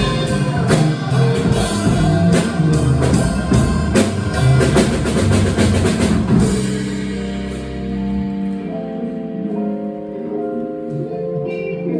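Jazz drum kit playing with cymbals, snare and bass drum over bass. About halfway through the drums stop, leaving sustained plucked string notes ringing on their own.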